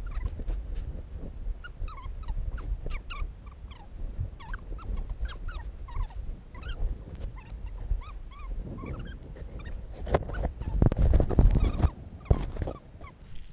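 Wind rumbling on the microphone during a blizzard, with a strong gust from about ten to twelve seconds in. Short high whimpering calls from an animal come and go throughout.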